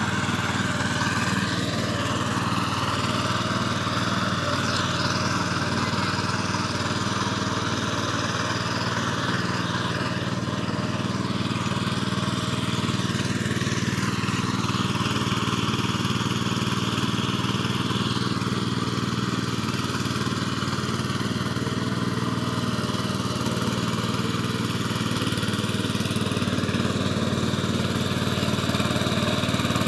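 Mini tractor engine running steadily at an even pitch.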